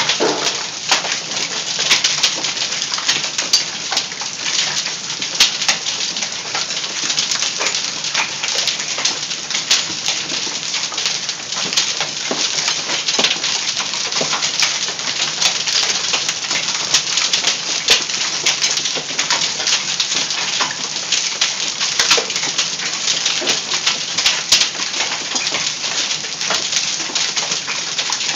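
Quarter- to golf-ball-sized hail pelting down in a heavy storm: a dense, unbroken clatter of countless hailstone impacts over a steady hiss of rain.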